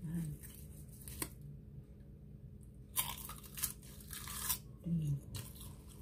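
Crisp roasted seaweed sheets crunching as they are bitten and chewed, a run of dry crackles from about halfway through. A short hum of a voice comes near the start and again about five seconds in.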